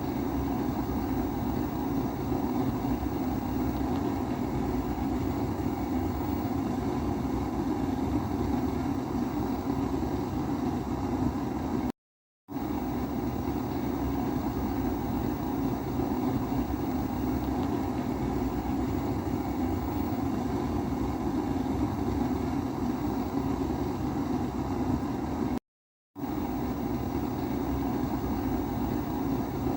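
Kerosene pressure stove (primus burner) burning with a steady, low rushing hum. The sound drops out to silence for a split second twice, about twelve and twenty-six seconds in.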